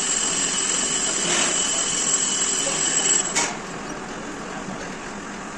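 A power tool or machine running steadily with a high whine, then dropping off abruptly about three and a half seconds in, leaving a quieter steady hum.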